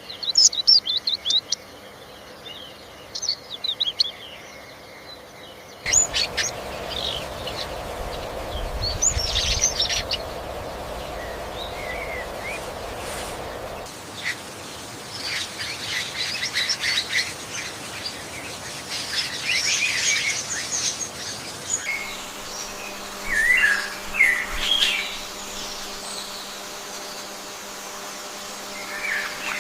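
Birds chirping and trilling in short, high bursts over a steady background hiss. The background changes abruptly three times, and a low rumble runs under the calls for several seconds in the first half.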